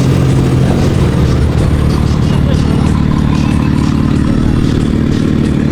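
Car engine idling steadily close by.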